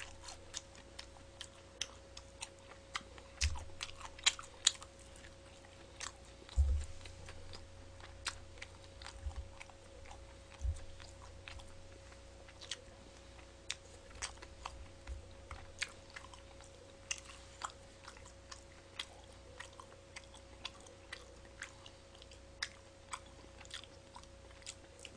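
Close-miked chewing and biting on fried chicken, with many short sharp crunching clicks scattered throughout. A faint steady hum runs underneath.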